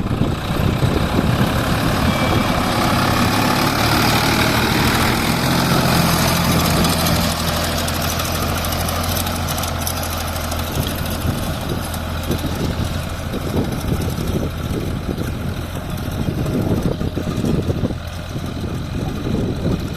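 Sonalika 745 tractor's diesel engine running steadily while pulling a reversible plough, a little quieter in the second half.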